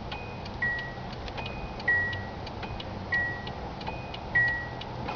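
Vehicle warning chime sounding over and over: a higher note then a lower one, ding-dong, about once every second and a quarter, four times through, over a low rumble.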